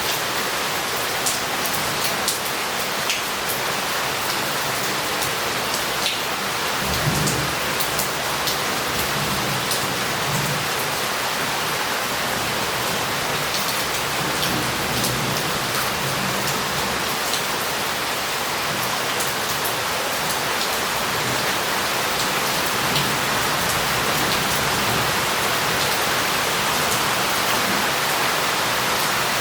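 Heavy rain falling on a city street, a steady hiss with drops spattering on tiles and water running off. About seven seconds in, a low rumble of thunder rises under the rain and rolls on for several seconds.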